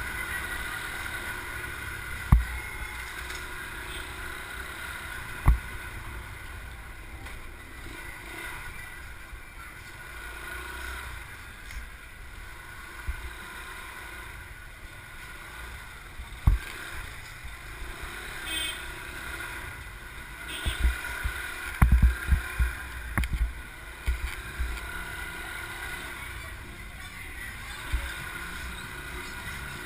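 Small motorbike running steadily on the move, with wind knocking on the microphone in low thumps, several in a cluster about two-thirds of the way through.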